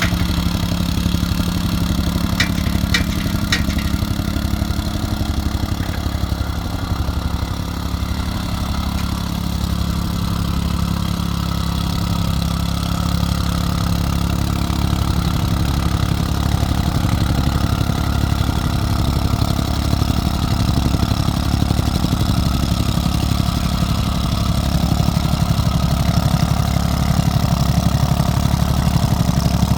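Construction machine's engine idling steadily, with a few sharp clicks about three seconds in.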